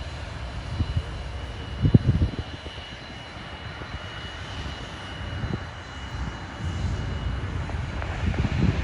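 Aircraft engines running at a distance: a steady low rumble with a thin high whine that fades out near the end. A few short low thumps break in, the loudest about two seconds in.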